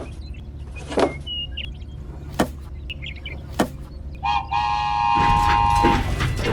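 A steady low motor hum with a few sharp clicks spaced a second or so apart. About four seconds in, a horn-like toot holds for nearly two seconds.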